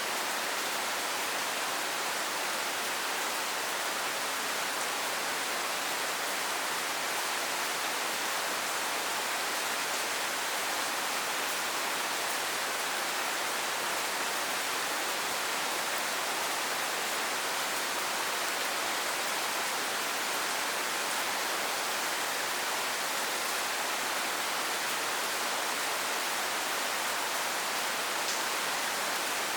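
Steady rain falling: an even, unbroken hiss, with one faint click near the end.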